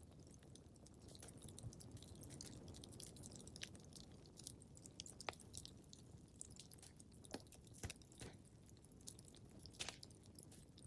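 Wood fire crackling faintly in a fireplace: irregular sharp pops and snaps over a low, steady rumble.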